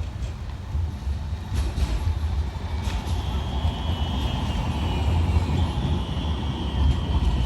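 Alstom Citadis tram passing with a low rumble and a couple of sharp clicks. From about three seconds in, a thin high squeal of the wheels on the rails runs on and slowly falls in pitch.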